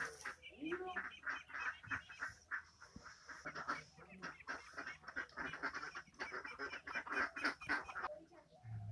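Birds calling in a rapid, continuous chatter that stops about a second before the end.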